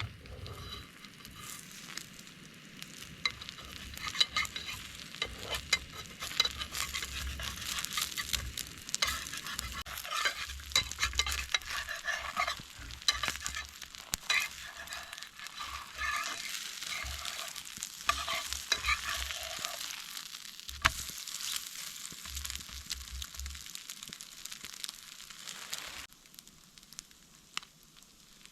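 Food sizzling in a pan, with many sharp clicks and scrapes of a utensil stirring it. It dies down a couple of seconds before the end.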